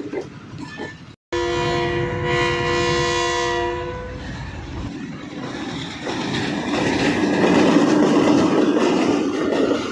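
Train horn sounding one long blast of several tones together for about three seconds, starting suddenly. Then the running noise of the train on the rails grows louder.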